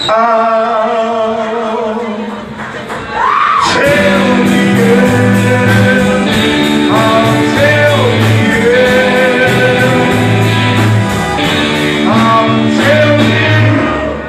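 Live rock band playing with a singer's voice. About three and a half seconds in, the full band comes in louder, with bass notes and a steady cymbal beat.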